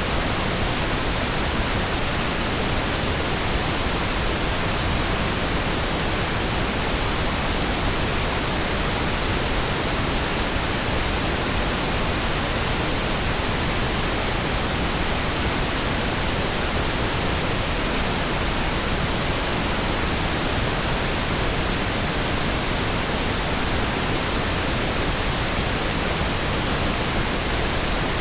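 Pink noise: a steady, even hiss across all frequencies, with no changes or breaks.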